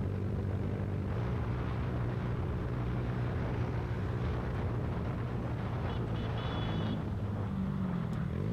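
Motorcycle engine running steadily while riding, over a constant rush of road and wind noise. Near the end the engine note shifts as the revs change.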